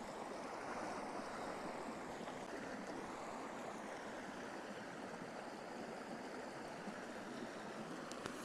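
Steady rushing noise with no distinct pattern, with a couple of faint clicks near the end.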